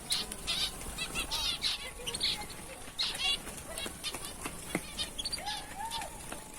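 Small aviary birds chirping in many short, high calls, with wings fluttering as they move about the aviary.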